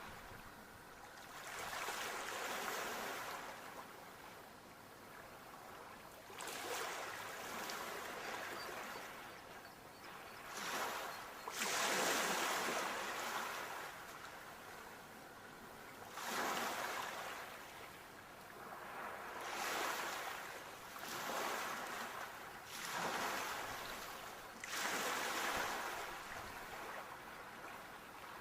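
Sea waves breaking, each one a swell of surf every three to four seconds, with a softer wash of water between.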